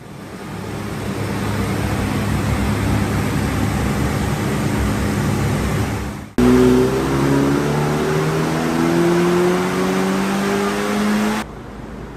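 Honda Civic Type R FL5's turbocharged 2.0-litre four-cylinder running on a chassis dyno: first at a steady speed with a rush of noise, then, after a sudden cut about six seconds in, a full-throttle dyno pull with the engine note climbing steadily through the revs. Near the end it cuts to a quieter steady whir.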